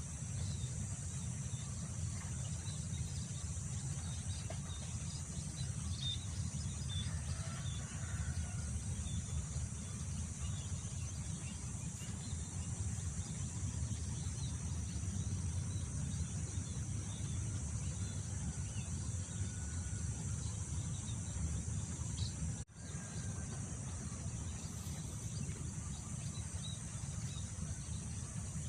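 Outdoor rice-field ambience: steady wind rumbling on the microphone under a continuous high insect drone, with occasional faint bird chirps. The sound briefly drops out about three-quarters of the way through.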